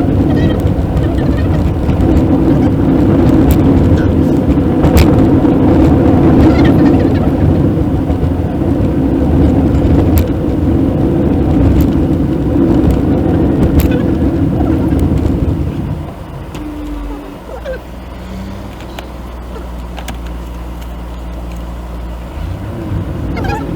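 Road and engine noise inside a Maruti Suzuki WagonR's cabin while it drives, with scattered knocks. About two-thirds of the way through the noise drops as the car slows, leaving a steady low engine hum, typical of idling.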